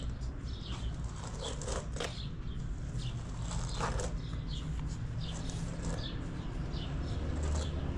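Small birds chirping on and off over a low steady hum, with a few soft rustles.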